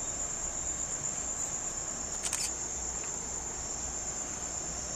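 Steady high-pitched drone of a rainforest insect chorus, unbroken throughout, with one brief click about halfway through.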